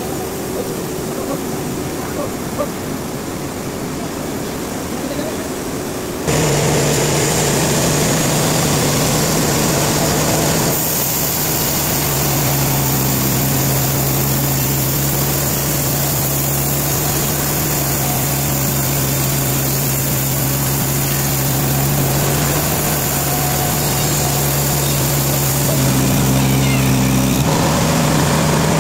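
Heavy machinery running steadily, a loud engine or motor drone with a hum. It jumps abruptly louder about six seconds in and changes pitch suddenly near the end.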